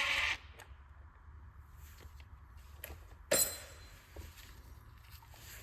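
A power ratchet's whir on the 10mm cover bolts cuts off just after the start. Then come a few faint handling clicks and one sharp clank about three seconds in, the loudest sound here.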